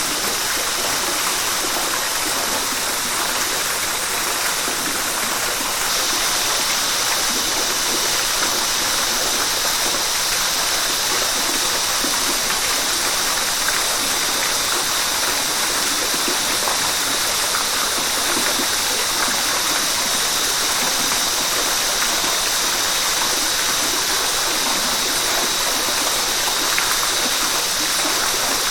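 Steady rush of flowing river water, an even, unbroken wash of noise. A high-pitched hiss within it grows a little stronger about six seconds in.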